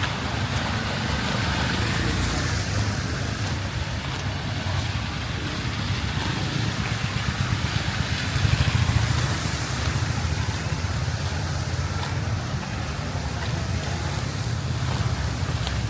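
Steady rumble of passing street traffic, with one vehicle going by louder about halfway through.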